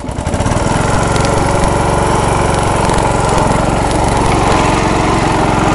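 MTD riding lawnmower engine opened up to high throttle, getting louder over the first half second and then running steadily at speed while the mower strains up a steep muddy slope.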